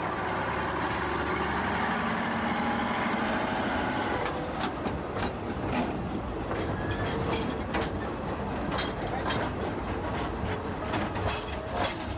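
The Gulflander rail motor pulling away, its engine and running gear rumbling, with wheels clicking over the rail joints from about four seconds in.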